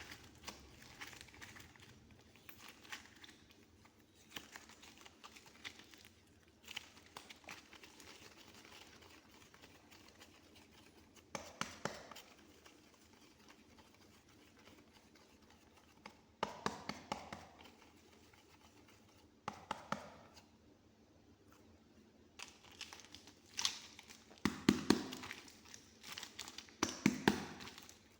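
Soft clay being handled close to the microphone: pressed, squished and pulled apart by fingers, giving clusters of small sticky clicks with quiet pauses between. It gets busier and louder near the end.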